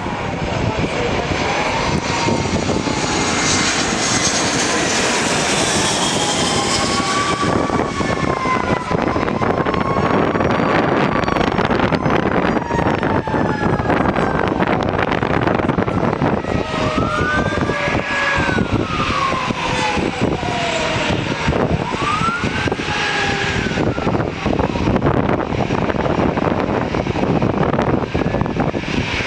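Jet airliner passing close by: a loud, steady engine rush with whining tones that glide up and down in pitch as it goes.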